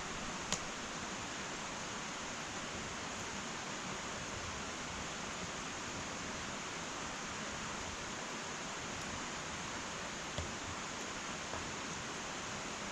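Wood fire burning in an irori, a sunken Japanese hearth: a steady hiss with one sharp crackle about half a second in and two fainter pops near the end.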